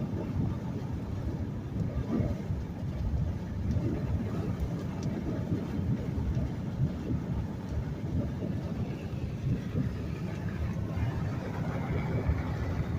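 Road and engine noise inside a moving car's cabin: a steady low rumble from tyres on a wet road.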